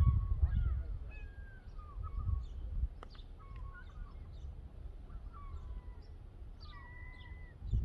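Many birds calling at once: short chirps and curving whistled calls overlap, with a few longer, steadier whistled notes near the end. Under them is a low rumble, strongest in the first couple of seconds, and a single sharp click about three seconds in.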